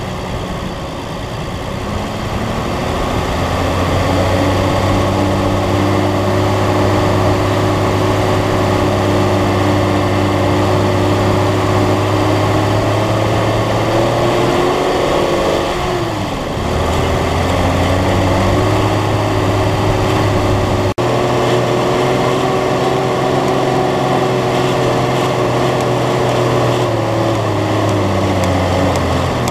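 Four-wheel-drive's engine running under load as it drives through soft beach sand. The pitch climbs in the first few seconds, dips sharply about halfway through and picks up again, then falls away near the end. There is one brief click about two-thirds of the way in.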